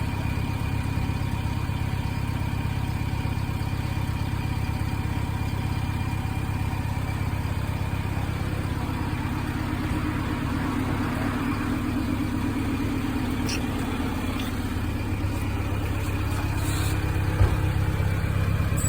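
An engine running steadily at low revs, with one short knock near the end.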